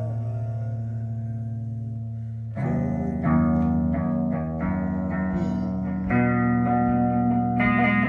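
Guitar with effects, over bass, playing slow, long-ringing chords. A new chord is struck about two and a half seconds in and again about six seconds in.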